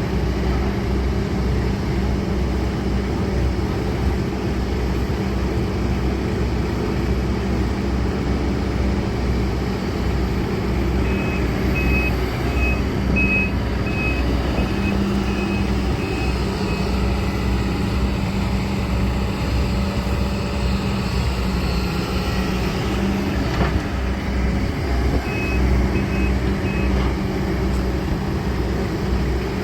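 Kobelco SK200-10 excavator's diesel engine running steadily, with its travel alarm beeping about twice a second for several seconds midway and again briefly near the end.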